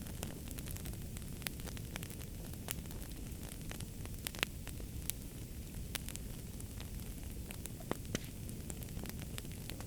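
Wood fire burning with a steady low rumble and frequent sharp, irregular crackles and pops, a few louder pops standing out.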